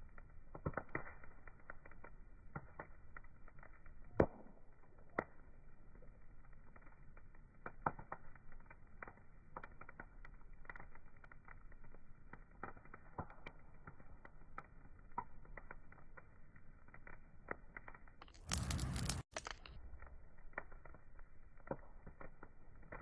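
Wood fire crackling: irregular small pops and snaps over a faint hiss. About three-quarters of the way through, a louder burst of noise lasts about a second and cuts off suddenly.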